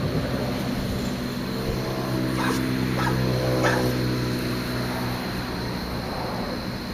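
A dog making one long, low, steady vocal sound that lasts about five seconds and fades near the end.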